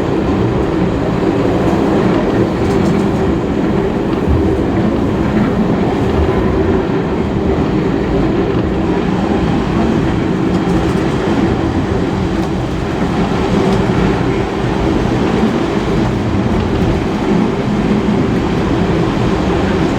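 Heritage passenger carriage running along the track behind a steam locomotive: a steady rumble of wheels and running gear on the rails.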